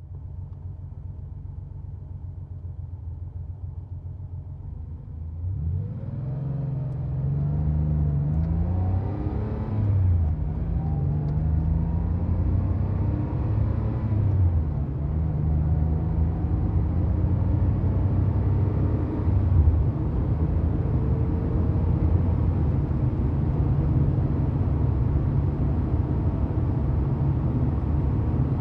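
1990 Porsche 911's air-cooled flat-six engine running. It starts out quieter, grows louder about six seconds in with its pitch rising and falling several times over the next ten seconds, then settles into a steady drone.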